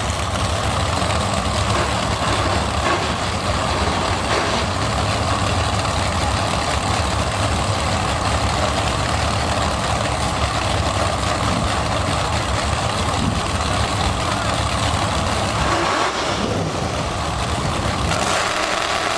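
Steady engine noise from race vehicles running, a continuous rumble that thins out in the low end near the end.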